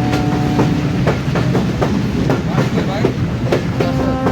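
A train running on rails, its wheels clicking over the rail joints in quick, irregular clicks over a steady rumble. Several steady tones start near the end.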